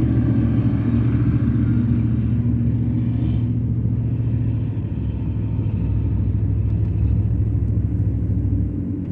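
Dodge Ram pickup engine running steadily while driving, a low hum. A deeper rumble builds about halfway through and falls away near the end.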